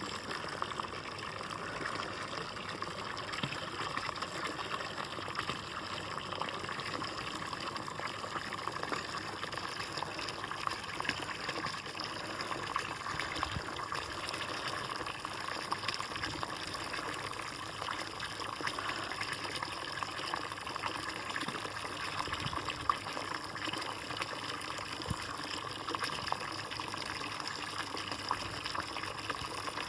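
Water running steadily and trickling and splashing into a bird bath, with no let-up.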